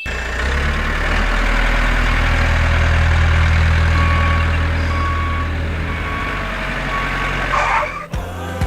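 Large vehicle engine running at a steady low rumble. About halfway through, a reversing alarm beeps four times, roughly once a second.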